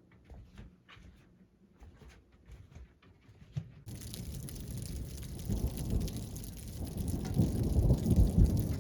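Faint scattered ticks, then about four seconds in a sudden switch to heavy rain with thunder rumbling, the rumble swelling louder toward the end.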